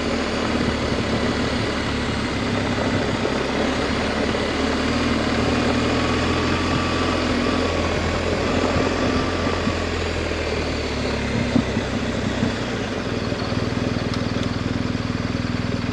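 Adventure motorcycle engine running steadily under way on a dirt road, with a constant rush of wind and road noise over it.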